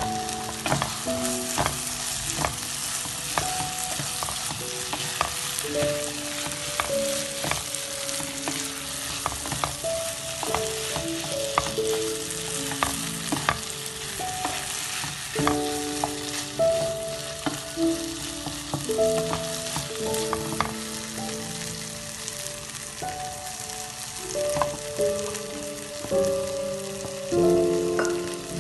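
Boiled chickpeas sizzling and frying in a masala gravy in a pan as they are stirred with a wooden spatula, with occasional knocks of the spatula against the pan. A simple melody of held notes runs underneath.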